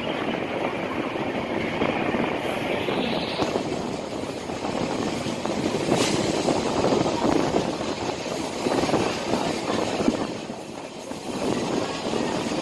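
Passenger express train running at speed, heard from the side of a moving coach: a steady rush of wheel-on-rail and wind noise, with a single sharp click about halfway through.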